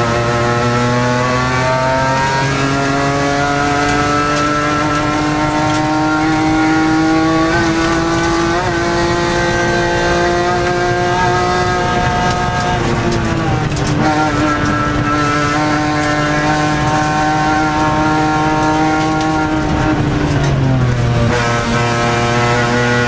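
BMW E46 M3 race car's engine heard from inside the cabin, pulling hard under load up a hill climb, its pitch climbing steadily through each gear. The pitch drops sharply at a gear change a little past halfway and again near the end, then climbs again.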